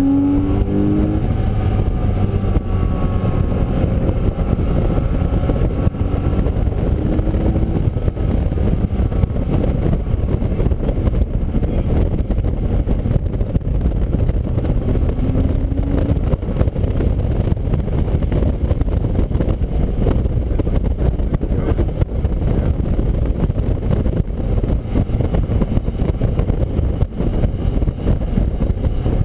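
Onboard sound of a race car at speed on a wet track: a steady, loud rush of engine, wind and tyre noise, with a few short rises in engine pitch.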